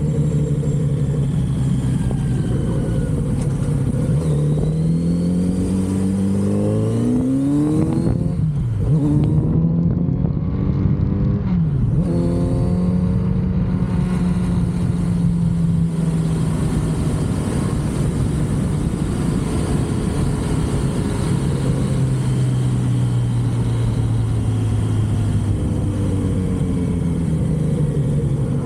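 Kawasaki Z900RS inline-four with its stock exhaust, heard from the saddle while riding: the engine note climbs twice as it accelerates, dropping sharply each time about eight and twelve seconds in, then runs steadily at cruise before easing off and picking up again near the end.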